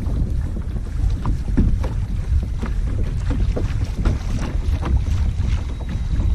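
Wind buffeting the microphone in a steady low rumble, with water lapping and splashing against a kayak hull in many small, irregular splashes.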